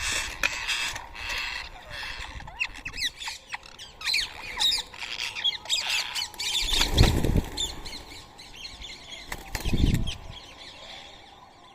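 Rose-ringed parakeets squawking in harsh repeated calls, breaking into a flurry of quick high chirps and shrieks partway through. Two loud low thumps stand out, about seven and ten seconds in.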